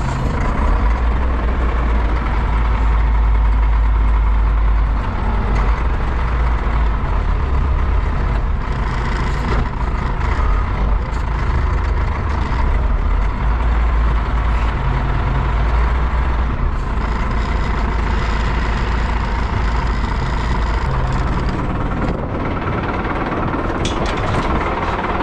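A vehicle engine running steadily at low revs close by, with a strong deep rumble and a few light clicks near the end.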